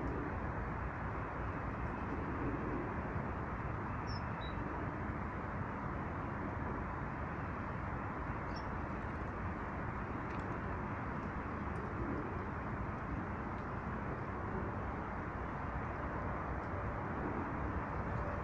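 Steady low outdoor rumble, with a few faint, short, high bird chirps about four seconds in and again near nine seconds.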